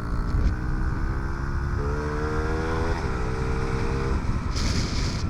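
Honda CRF50F's small single-cylinder four-stroke engine revving up under way: its pitch climbs for about three seconds, holds briefly, then falls off about four seconds in. Heavy wind rumble on the microphone runs underneath, with a burst of hiss near the end.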